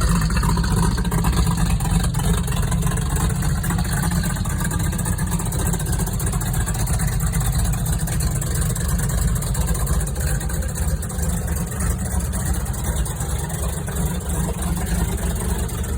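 Chevrolet small-block V8, built with a Lunati cam and 11.5:1 compression, idling steadily through a Borla exhaust.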